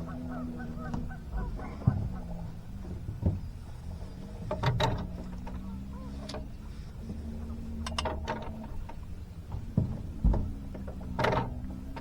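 Fishing reel working under load during a fight with a large catfish: ratcheting mechanical clicks over a steady low hum, broken by three short, loud calls a few seconds apart.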